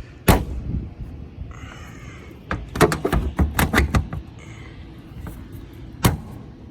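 Bent sheet-metal access door of a rooftop HVAC unit being knocked back into place: a sharp knock just after the start, a quick run of clanks and knocks between about two and a half and four seconds in, and one more knock near the end.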